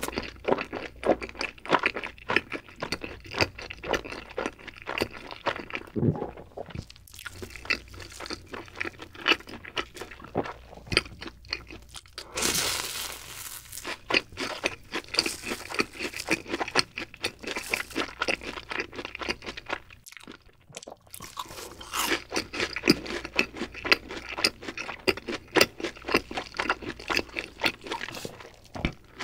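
Close-miked crunchy chewing of fried cheese balls, many small crackles and clicks. About twelve seconds in comes a longer crackling bite into a crisp cheese ball.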